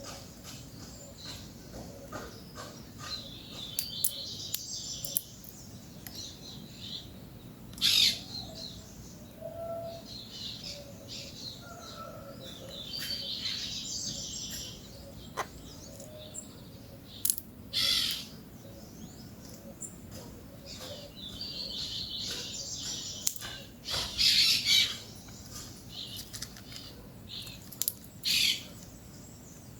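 Peach-fronted parakeets calling: spells of chatter high in pitch, broken by short, harsh calls, the loudest about eight seconds in, twice around eighteen and again around twenty-four and twenty-eight seconds.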